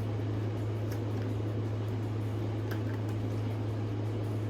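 Steady low hum, with two faint light clicks of small items being handled, about a second in and near three seconds.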